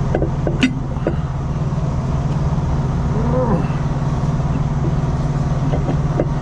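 A truck engine idling steadily, with a few light clicks and knocks of metal parts being handled.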